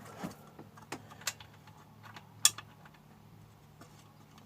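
A few small metallic clicks and taps as a bar nut is handled and worked onto the bar stud of a Stihl chainsaw, the loudest click about two and a half seconds in. The nut will not go on and has been cross-threaded.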